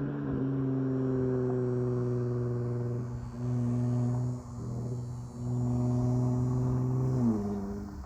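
Dodge Charger GT's V6, straight-piped with Super 10 mufflers, running at a steady engine speed while driving. It eases off twice in the middle, and its pitch steps down about seven seconds in, as at a gear change or lift-off.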